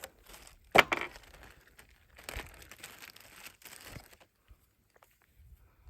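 Crinkling, rustling handling noises with one sharp knock just under a second in, dying away after about four seconds.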